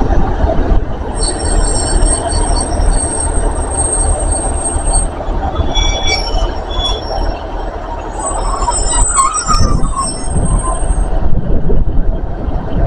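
Train running on the rails with a steady low rumble, its wheels giving a high-pitched squeal twice, once for about four seconds and again for about three seconds later on.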